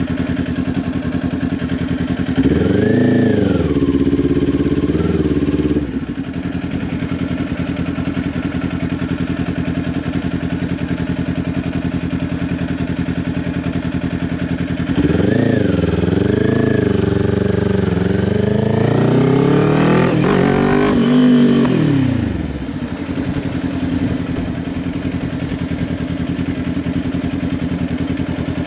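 Kawasaki Ninja 400's parallel-twin engine through a Leo Vince LV10 exhaust, running steadily at low revs with two bursts of throttle: a short one about two seconds in and a longer one about halfway through, its pitch rising and falling before it settles back.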